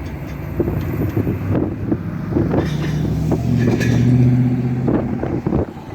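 Metra commuter train's diesel locomotive running as the train goes by, a steady low engine drone that shifts in pitch a few times, with scattered clicks over it.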